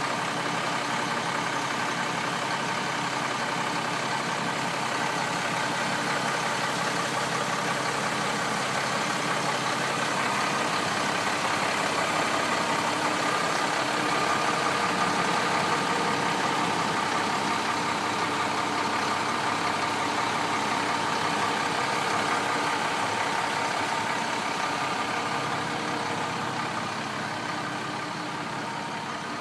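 International DT466 inline-six diesel engine of a 1993 International 4900 dump truck running steadily, easing off slightly near the end.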